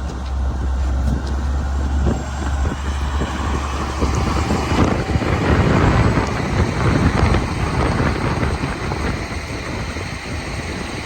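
Sakai road roller's diesel engine running with a steady low drone, turning louder and rougher about halfway through, then easing off.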